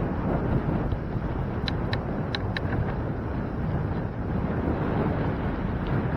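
Wind rushing over the microphone of a moving bicycle's camera, with a steady low rumble. Four short high squeaks come in quick succession about two seconds in.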